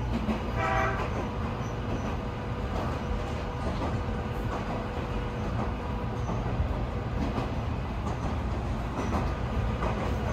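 An Alpico Kōtsū Kamikōchi Line electric train running along the track: a steady rumble of wheels and running gear, with a faint steady tone that fades out after about seven seconds.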